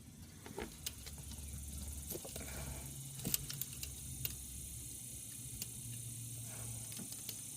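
Faint scattered clicks and handling sounds as a wiring plug is worked onto a car starter by hand, over a low steady hum.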